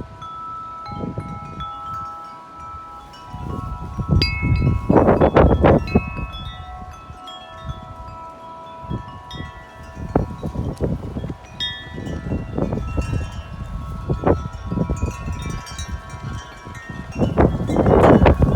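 Wind chimes ringing steadily in strong, gusty wind, with many overlapping sustained tones. Wind buffets the microphone, hardest about four to six seconds in and again near the end.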